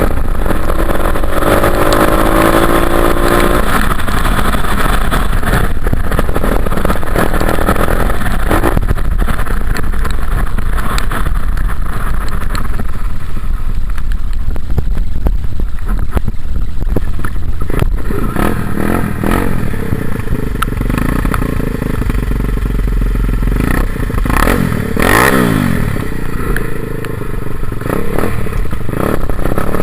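Dirt bike engine running during a ride, rising in pitch as it revs for the first few seconds and again briefly near the end, over a loud, steady low rumble.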